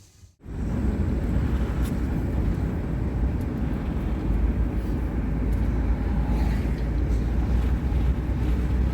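Steady road and engine noise heard from inside a moving car, heavy in the low end, starting abruptly about half a second in.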